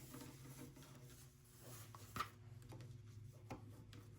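Near silence: faint handling of fabric layers being slid under a sewing machine's presser foot, over a low steady hum, with one small click about two seconds in.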